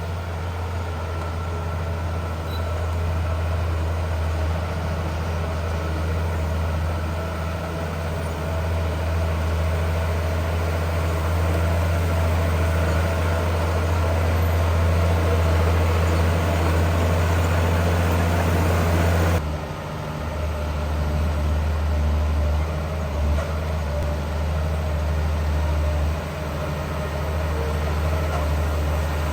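Heavy diesel engine of earthmoving machinery running steadily with a deep drone. The sound shifts abruptly to a slightly lower drone about two-thirds of the way through.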